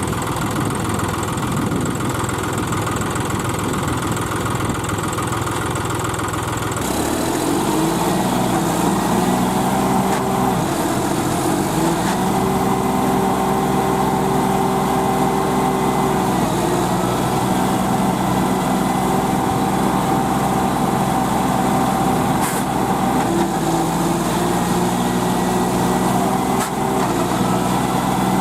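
Tractor engine running, then at about seven seconds it revs up and holds at a higher, steady speed with small dips until the end.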